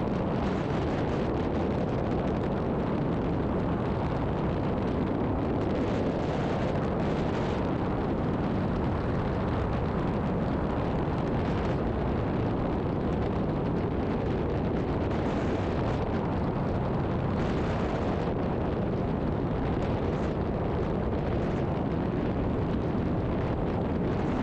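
Steady engine and airflow noise of a Zenith STOL CH 750 Super Duty light airplane flying its short final approach.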